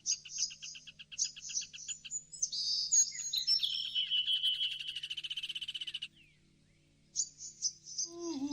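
Birds singing in rapid chirping trills, then one long buzzy trill from about three to six seconds in. After a second of quiet, the trills start again near the end. A faint low steady hum runs underneath.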